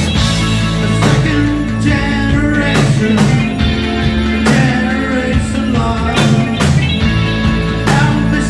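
Live rock band playing loudly, with sustained chords over repeated drum hits.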